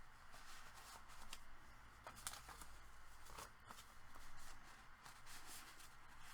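Paper pages of a handmade journal rustling faintly as they are handled and turned, with scattered soft clicks and crinkles.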